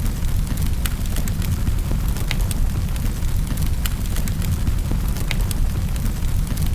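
Wood fire crackling in a fireplace: scattered sharp pops and snaps, several a second, over a steady low rumble.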